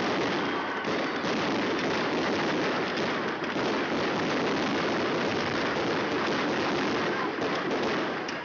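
A dense fireworks barrage, its bangs and crackle running together into a steady wash of noise that is distorted by the sheer loudness.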